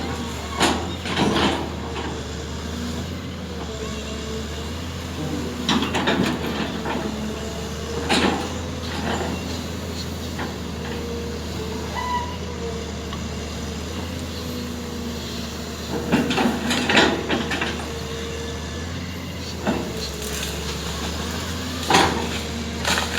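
Heavy diesel machinery running steadily with a low hum and a wavering whine, broken by irregular metallic clanks and knocks as an amphibious excavator is unloaded from a truck.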